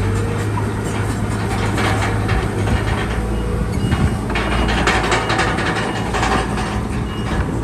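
Bulldozer's diesel engine running steadily, with irregular metallic clanking and rattling through it.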